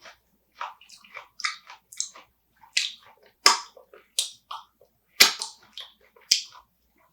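Close-miked wet chewing and mouth smacks while eating spicy marinated raw crab, with irregular clicks throughout and two sharper cracks, one a little past five seconds and one past six.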